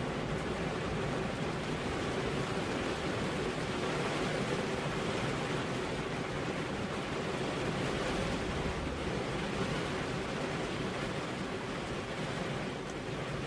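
Steady rain with wind, an even rushing hiss without thunderclaps.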